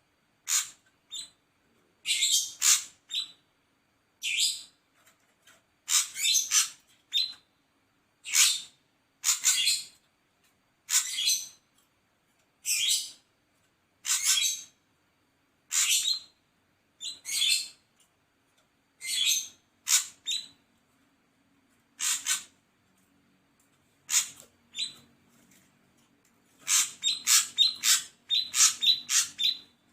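Ashy drongo calling: short, high, sharp notes in groups of two or three every second or two, quickening near the end into a rapid run of notes.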